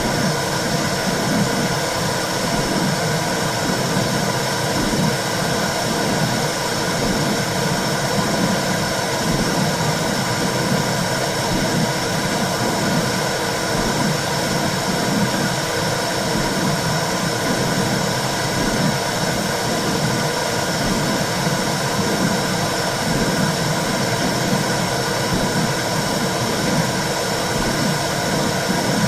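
Womb sound for soothing a baby: a steady whooshing rush with a low, pulsing swell that repeats throughout.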